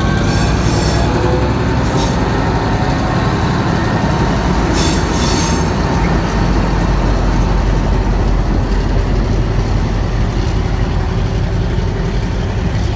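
Train rolling past close by on the rails: a loud steady rumble of wheels, with short high wheel squeals about half a second, two seconds and five seconds in.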